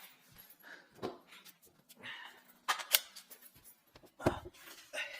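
Scattered sharp clicks and knocks of hard parts and tools being handled under a kitchen sink as its plumbing fittings are worked on. The loudest come as a pair near the middle and a heavier knock near the end.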